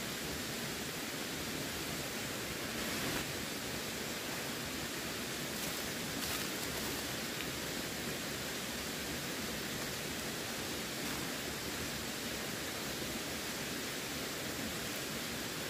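Running water: a steady, even rush of flowing water, with a couple of slightly louder splashes about three and six seconds in.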